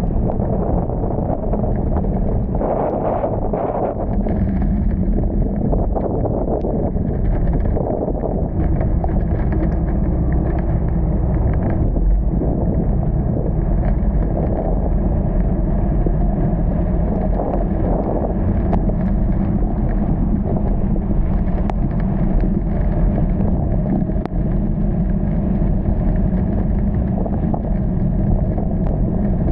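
A car driving: steady engine and road noise with a low hum, continuous and even throughout.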